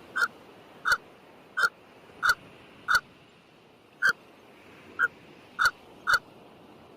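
A short, sharp animal call repeated about every two-thirds of a second, nine times, with a slightly longer pause near the middle.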